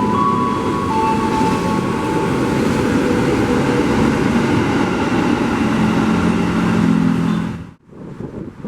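A train running past at close range, a loud steady running noise with a thin whine that steps up in pitch near the start. It cuts off suddenly near the end, leaving quieter background.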